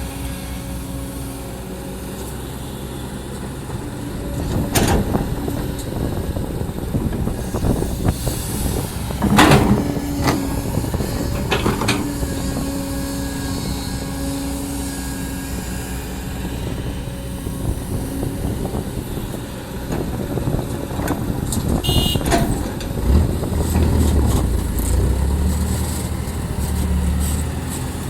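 Hydraulic excavator working, its diesel engine running under load with a steady hydraulic whine. Several loud knocks and scrapes, about 5, 10, 12 and 22 seconds in, are the bucket digging into hard, rocky ground.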